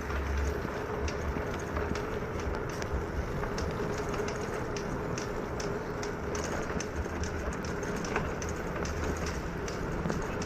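Bicycle riding along a road: steady tyre and road noise with many small clicks and rattles, and wind buffeting the microphone near the start.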